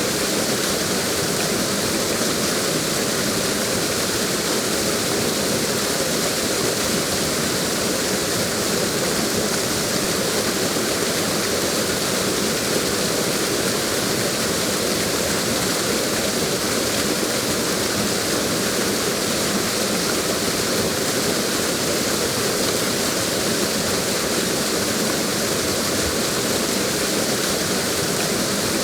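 Waterfall: a steady rush of falling water, even and unchanging throughout.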